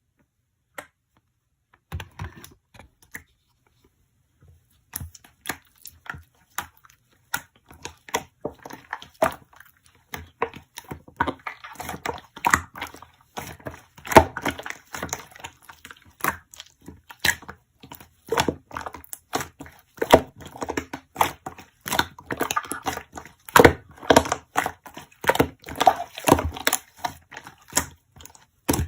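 Slime being pressed, poked and stretched by hand, making sticky clicks and crackles. The sounds come sparsely at first and turn into a dense, continuous run after about five seconds.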